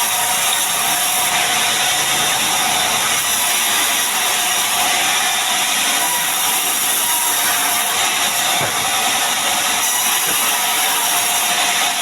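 Power saw running steadily through mahogany timber, cutting it into beams.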